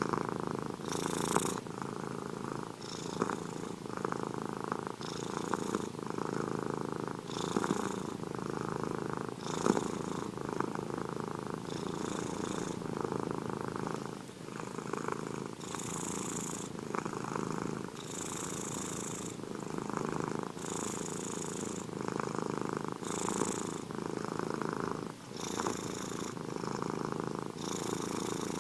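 Domestic cat purring continuously and close up, the purr rising and falling with its breathing, about one breath every two seconds.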